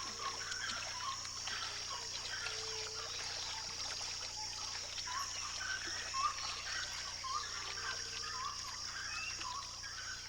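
Flooded-wetland ambience: a steady high insect drone, short chirping animal calls repeating throughout, and faint trickling water.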